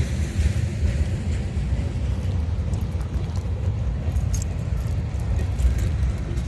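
Freight train cars rolling past with a steady low rumble, and a few light metallic clinks and rattles from the cars in the middle of it.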